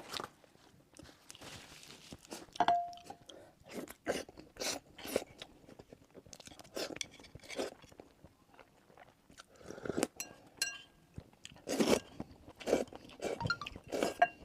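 Close-miked eating sounds: irregular bites and chewing of hot-and-sour sweet potato noodles, a string of short separate mouth sounds with pauses between them.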